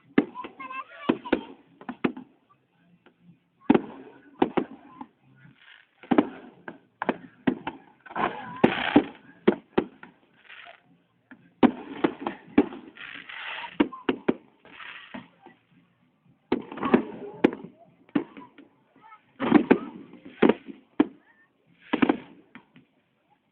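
Fireworks and firecrackers going off in rapid volleys of sharp bangs, each volley a second or few long, with short pauses between them.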